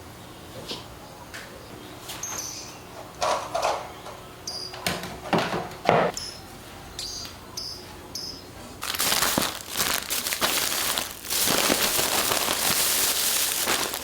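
Household handling sounds: scattered knocks and clicks, then from about nine seconds in a steady run of rustling, hissing noise.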